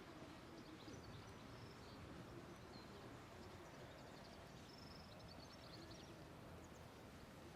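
Near silence: faint outdoor background hum with a few faint, high, short bird chirps scattered through it.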